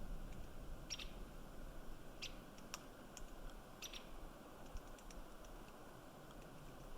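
White-headed woodpecker pecking and prying at ponderosa pine cones: faint, sharp, irregular taps and clicks, a handful in the first four seconds and fainter ones after.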